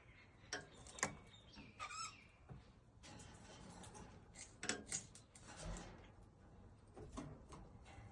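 Faint scattered clicks and taps, with one short wavering squeaky chirp about two seconds in, from a pet parrot.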